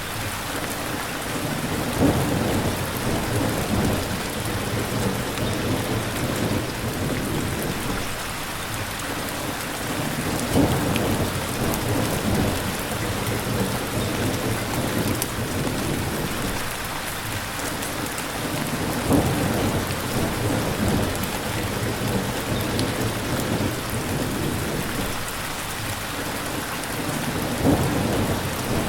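Steady rain falling. A brief low swell rises out of it about every eight seconds, four times.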